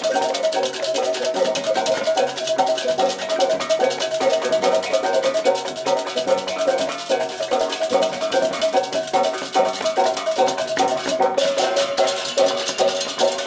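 Balinese gamelan music: metallic percussion ringing repeated interlocking notes over a fast, continuous clashing rattle.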